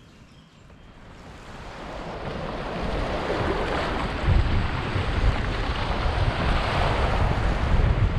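Rushing river water mixed with wind buffeting the microphone, swelling from faint to loud over the first four seconds and then holding steady.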